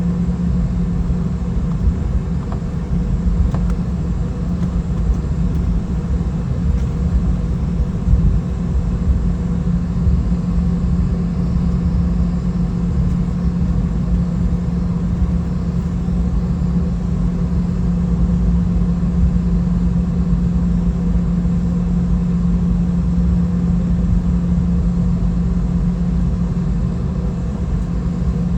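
Cabin noise of a Boeing 717-200 on the ground, its rear-mounted Rolls-Royce BR715 turbofans running at low power: a steady hum over a low rumble, with no build-up of thrust.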